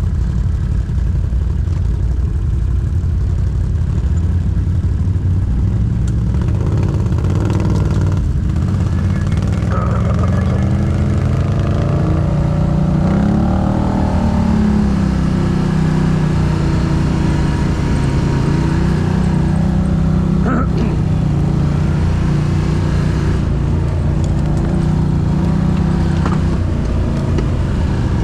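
ATV engine running steadily under load off-road, its revs climbing about midway and then easing back. A few short knocks are heard along the way.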